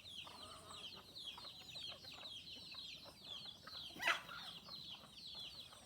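Backyard chickens clucking and squabbling, over constant rapid high chirping, with one loud sharp squawk about four seconds in.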